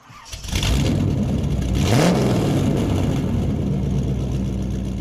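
Car engine running: it swells in over the first half second, gives one quick rev blip about two seconds in, then settles to a steady idle that slowly fades.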